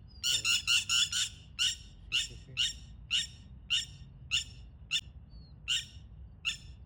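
A bird calling over and over in short, sharp chirps: a quick run of about five in the first second, then one every half second or so.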